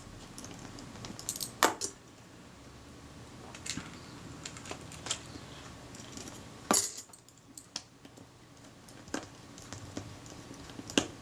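Scattered sharp little clicks and clinks of small metal parts and tools handled on a workbench, about six of them with gaps between, as the film advance lever, base cover and screws of a Kodak Retina IIIc camera are fitted.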